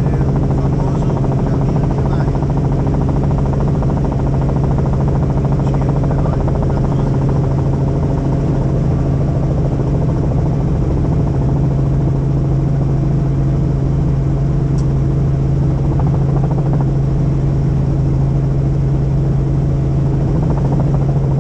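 Helicopter in flight: a loud, steady drone of engine and rotor with a strong low hum that holds one pitch.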